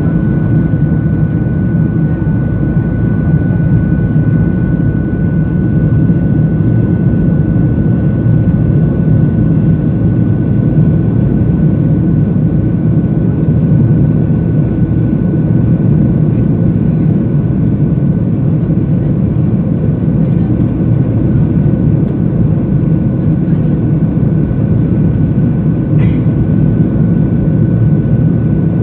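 Airliner cabin noise in flight: a loud, steady low rumble of engines and airflow, with a thin constant whine above it.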